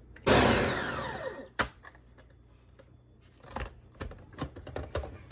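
An electric blender runs in one short pulse through a batch of soaked puppy food and milk, its motor pitch falling as it spins down. Then come a few light knocks and clicks.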